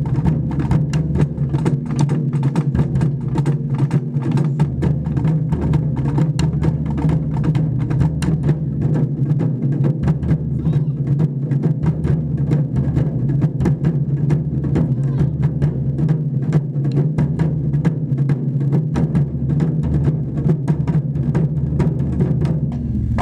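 Japanese taiko drums played by an ensemble: a fast, unbroken stream of strokes over a deep, steady drum boom.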